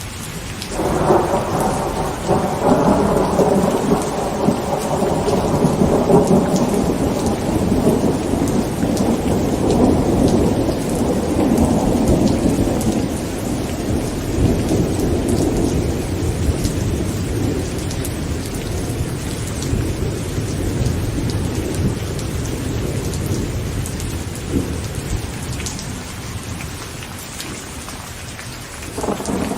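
Heavy rain falling steadily on a tent, with a long roll of thunder that breaks about a second in and slowly dies away over the next twenty-odd seconds. Another roll of thunder starts right at the end.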